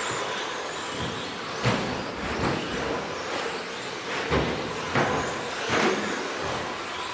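Radio-control 2WD trucks racing on a track, with 13.5-turn brushless electric motors whining and tyres scrabbling. About five sharper, louder hits come in the middle, roughly a second apart.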